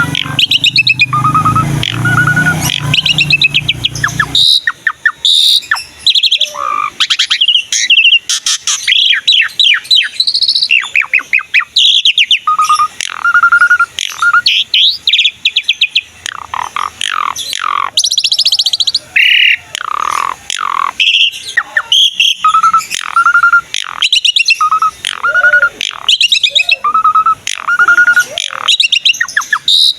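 Asian pied starling singing vigorously: a varied stream of loud whistles, slurred glides and clicking chatter, with runs of a short whistled note repeated several times in a row. A low hum lies under the first few seconds.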